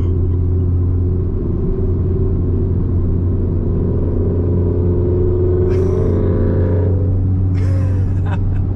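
Steady low engine drone and road noise of a car cruising at highway speed, heard inside the cabin, with a few short higher noises in the last few seconds.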